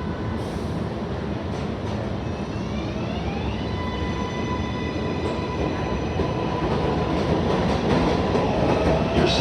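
Subway train moving through an elevated station: rumble of wheels on rail with a motor whine that rises in pitch about two to four seconds in and then holds steady, the train growing louder and clicking over rail joints near the end.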